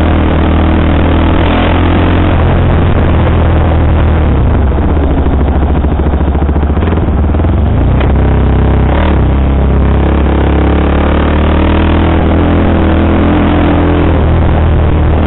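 KTM sportbike engine running on a Powertronic ECU map while the bike is ridden, loud and continuous. The engine note drops about four seconds in, then climbs again after about nine seconds as the bike accelerates.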